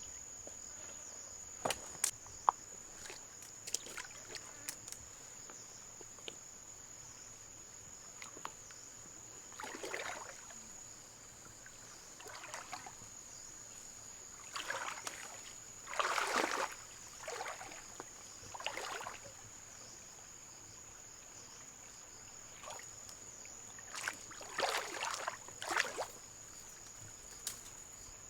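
Water sloshing in a series of short swishes, over a steady high-pitched insect drone, with a few sharp clicks in the first few seconds.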